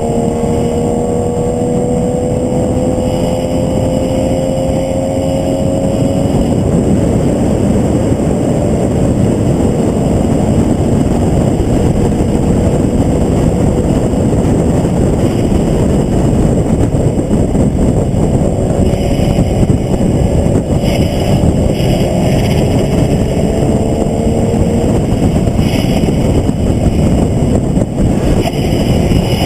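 Onboard sound of a vehicle lapping a race track at speed: dense wind and road noise with the engine note rising as it accelerates in the first few seconds, and again in the second half.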